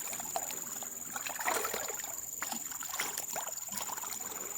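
Small irregular water splashes and trickling in a river, over a steady high-pitched tone.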